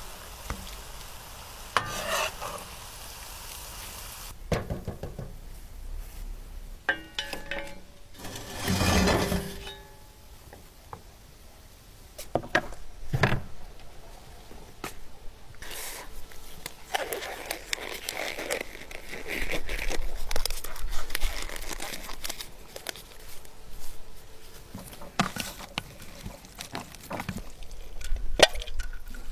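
A serving utensil clinking, knocking and scraping against cookware as food is dished out of it. There are scattered sharp knocks and a few longer stretches of scraping and stirring.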